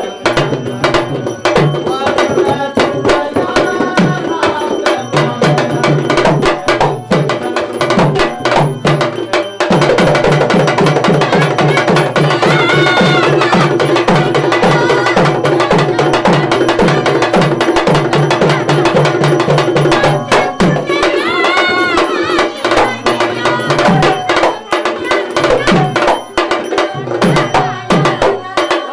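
Marathi tamasha folk music: a hand drum plays a fast, steady rhythm under a sustained melody. The playing grows denser and louder from about ten seconds in.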